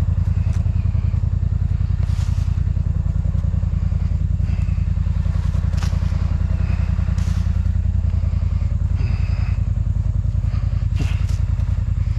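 Polaris Sportsman ATV engine running steadily at an even, low speed, with a few brief knocks and scrapes scattered through.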